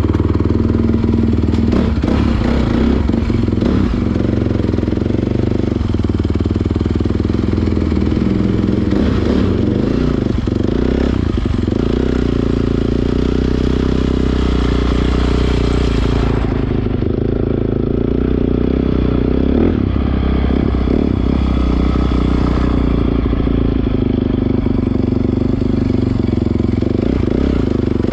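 Honda CRF450R dirt bike's single-cylinder four-stroke engine running while being ridden, its note holding fairly steady throughout.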